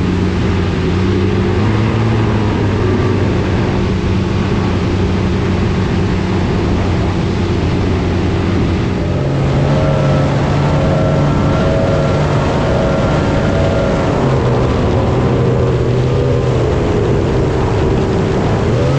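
Jet boat engine running under way over a steady rush of wind and water, its pitch stepping up about halfway through as it revs higher, then wavering near the end.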